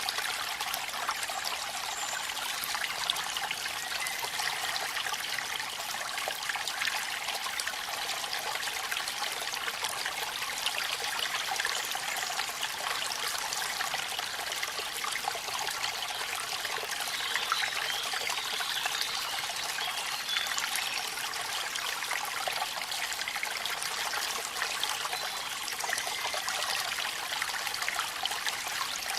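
Steady rush of a waterfall with rain falling, an even hiss of water flecked with fine drip-like ticks.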